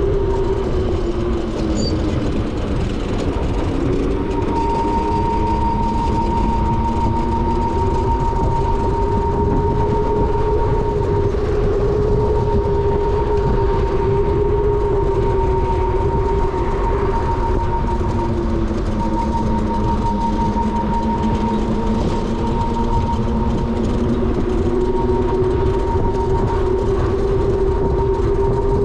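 72V electric motorbike's motor whining while riding, its pitch slowly rising and falling with speed, with a steady higher whine from the drive and a constant rush of wind and road noise underneath.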